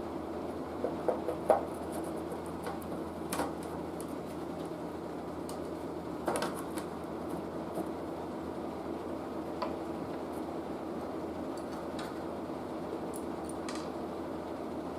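A few light clinks and knocks of small hard objects being handled, a cluster about a second in and single ones later, over a steady low hum.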